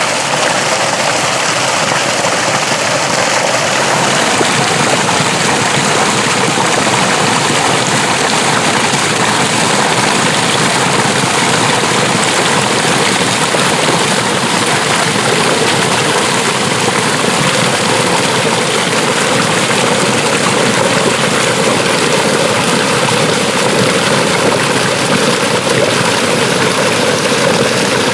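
Water rushing steadily along an irrigation ditch, a continuous loud rush of flowing water with a slight change in tone about four seconds in.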